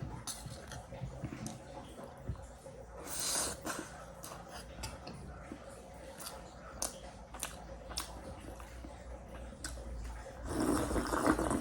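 A person eating close to the microphone: chewing with many small wet mouth clicks and smacks, with a brief louder noise about three seconds in and a louder stretch of mouth sounds near the end.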